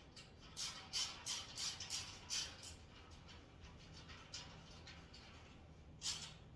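Hand ratchet driving screws into the metal rack: a run of short rasping clicks, about three strokes a second, stopping about three seconds in, with one more stroke near the end.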